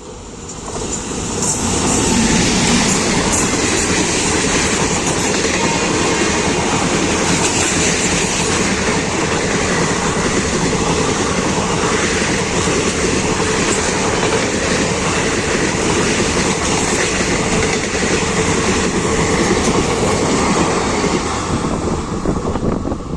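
Passenger train hauled by a WAG-9HC electric locomotive passing close by: a loud, steady rush and rattle of wheels on rails that builds up about a second in and carries on as the coaches go by.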